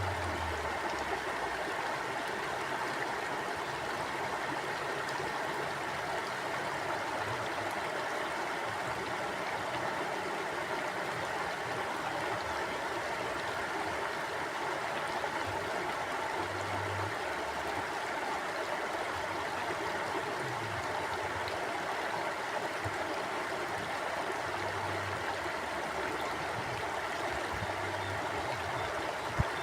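Forest mountain stream flowing steadily, an even rush of water with a few soft low rumbles. A single sharp click comes near the end.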